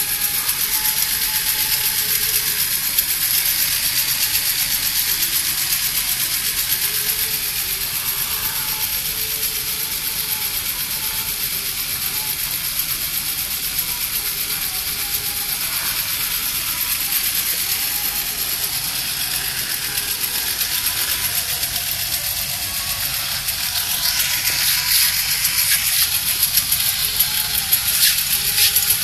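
Battery-operated tin toy farm truck running: its small electric motor and gear train whir steadily, getting louder with a few clicks over the last few seconds.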